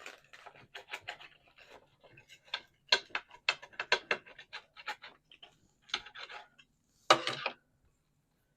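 Knife sawing through a baked calzone's crisp crust: a run of quick scratchy crunches and scrapes, with one louder scrape about seven seconds in.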